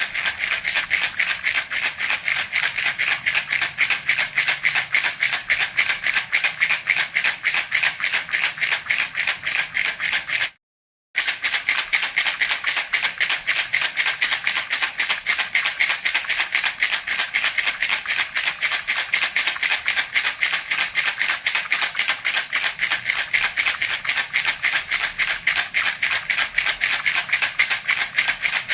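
Baby rattle (jhunjhuna) shaken steadily in a fast, even rhythm. The sound cuts out completely for about half a second roughly ten seconds in, then resumes.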